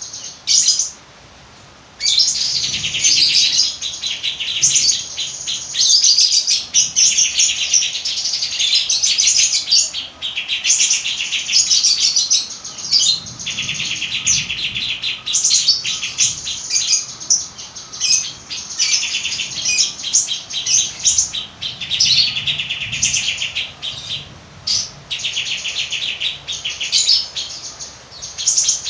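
Songbird singing a fast, nearly unbroken 'fighter'-style song of rapid chirps and trills, with a short pause about a second in. This kind of recording is played to stimulate silent cage birds into singing.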